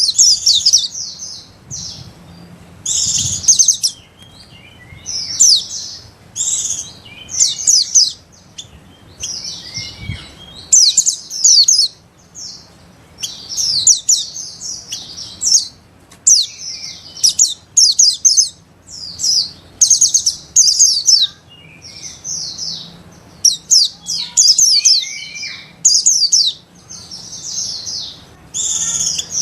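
White-eyes (pleci) singing: bursts of rapid, high, chattering twitter, one every second or two with short gaps between them.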